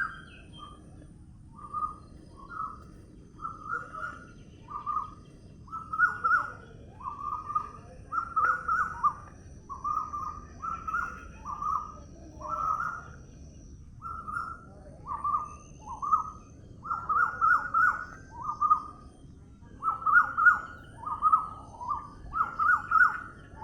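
A bird calling with short, repeated notes, one or two a second, in runs broken by brief pauses.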